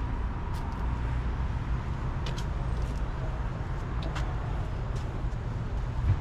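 A car engine idling with a steady low rumble, with a few short sharp clicks over it.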